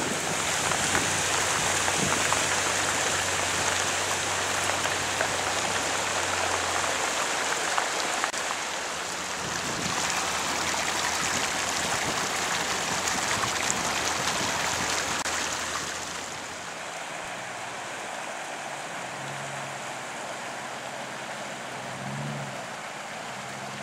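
Steady rushing hiss of heavy rain and floodwater. It eases a little about sixteen seconds in, with a faint low hum underneath.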